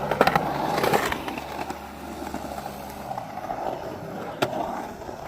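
Skateboard with hard 65 mm urethane wheels and Independent 215 trucks rolling on concrete, a steady roar of the wheels, with a few sharp clacks of the board in the first second and one more about four seconds in.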